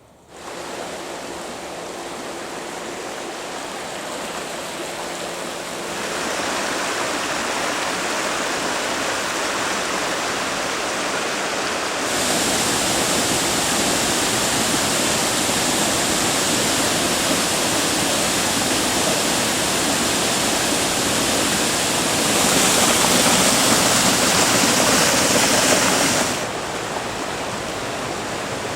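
Waterfall and stream water rushing: a steady, even rush that jumps abruptly in loudness several times and is loudest near the end.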